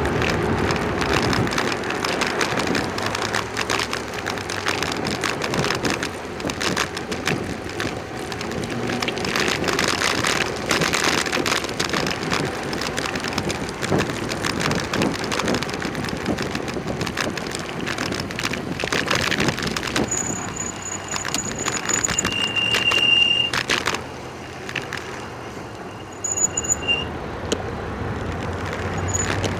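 Bicycle riding along a road: tyre and road noise with a rattling frame and wind on the microphone. About twenty seconds in, a high-pitched squeal, then a louder, lower squeal lasting about a second and a half, as the brakes are applied. After that the noise drops for a few seconds, and a few short ticks and squeaks follow.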